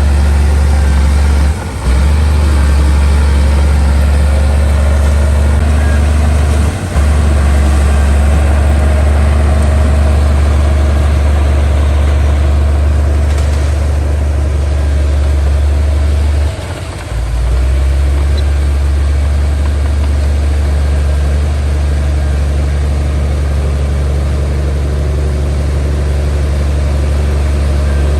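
Heavy diesel engine of earthmoving machinery running steadily with a deep, loud low hum. It dips briefly three times: about two seconds in, near seven seconds, and around seventeen seconds.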